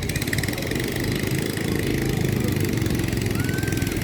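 An engine running steadily, with a rapid even pulse.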